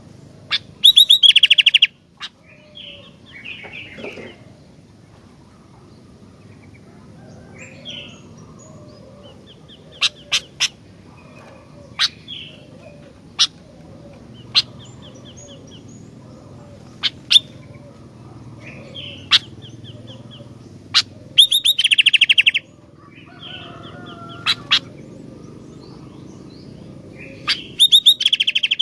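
Sooty-headed bulbul (kutilang) singing: sharp single notes every second or two, broken three times by loud rapid chattering bursts about a second long, near the start, about two-thirds through and at the end.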